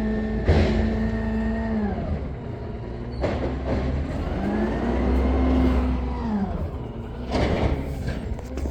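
Garbage truck engine revving up and dropping back twice, with three brief sharp bursts of noise in between.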